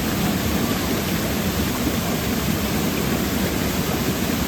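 Waterfall pouring: a steady, deep rush of falling water.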